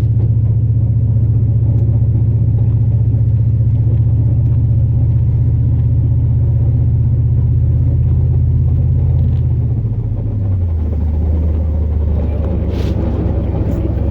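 Steady low drone of a 2002 Chevrolet Silverado's 8.1L big-block V8 and its road noise, heard from inside the cab while driving; about ten seconds in, the drone drops to a lower pitch.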